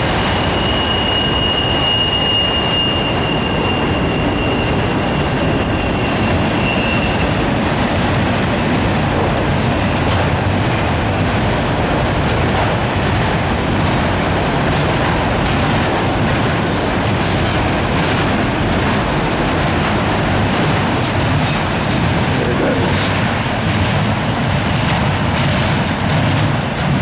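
Freight cars of a long CSX train rolling past, with a steady rumble and rattle of steel wheels on the rails. A high, steady wheel squeal holds for the first several seconds, and a few clanks come near the end.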